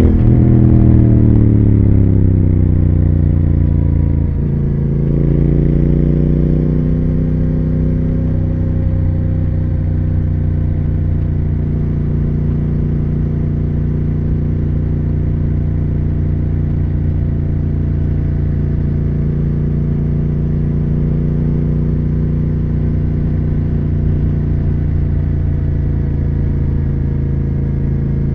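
Triumph Speed Twin 1200's parallel-twin engine under way. The revs fall for the first few seconds, the note breaks briefly about four seconds in, then it settles into a steady cruise.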